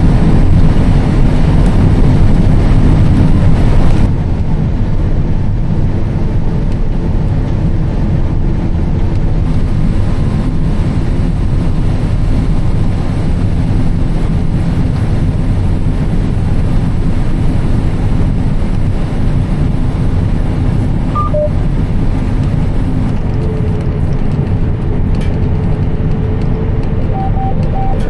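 Combine harvester running steadily while cutting soybeans: an even engine and machine drone that drops a little in level about four seconds in. A few short electronic beeps sound near the end.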